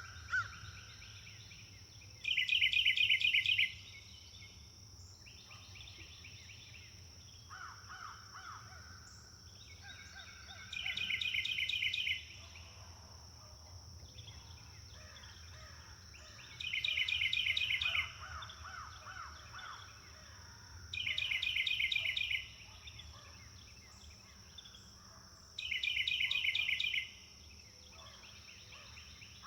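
Birds singing: one bird repeats a loud phrase of quick, evenly spaced notes five times, each about a second and a half long, while other birds call more softly in between. A steady high-pitched hum runs underneath throughout.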